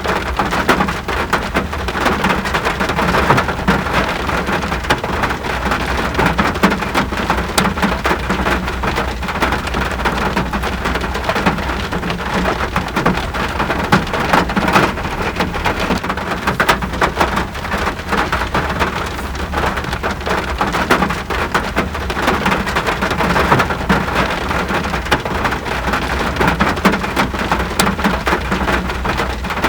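Steady rain falling and pattering on surfaces, a dense even hiss with many small drop impacts.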